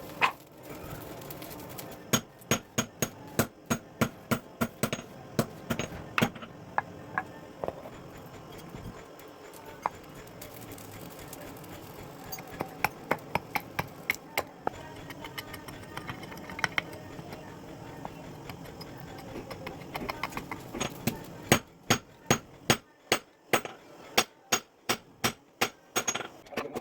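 Hand hammer striking the steel of a sickle blade being forged, in runs of sharp metallic blows about two to three a second. The blows are sparser in the middle stretch and come in a faster, louder run near the end.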